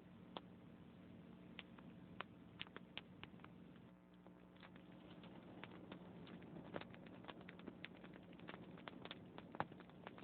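Wood fire crackling faintly: irregular sharp pops and snaps from burning logs, coming more often in the second half, over a steady low hum.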